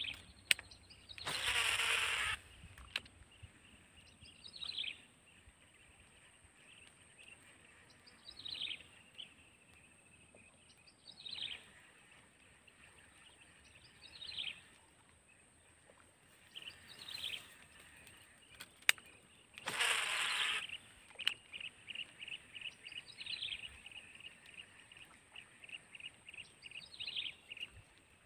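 A bird calling repeatedly, short downward-sliding notes every three or four seconds, over a steady high-pitched insect drone, with a fast chattering trill in the second half. Twice, about 2 seconds in and about 20 seconds in, a loud rushing whoosh lasting about a second.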